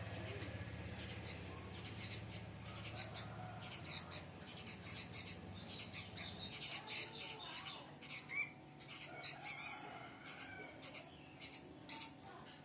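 Sooty-headed bulbul chicks calling in many short, high chirps, densest in the middle and later part, over a low hum that stops about halfway through.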